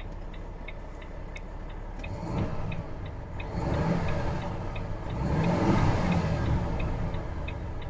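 Volvo FH 500 truck's 12.8-litre inline-six diesel idling and being revved three times, each rev rising and falling back, the last the loudest. A light regular ticking sounds about three times a second throughout.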